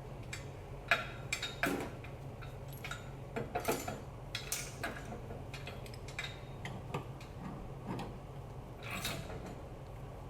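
Scattered short metallic clicks and ticks at irregular intervals, a few lasting a fraction of a second, over a steady low hum.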